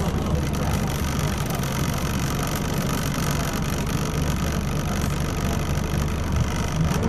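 Scania L94UB single-decker bus running steadily: a low engine drone with a steady higher-pitched noise over it, on a bus whose known fault is a grinding noise.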